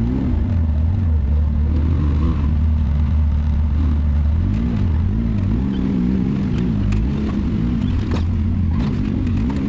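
Can-Am X3 side-by-side engine running at low, slightly wavering revs, with a few sharp clicks and knocks near the end.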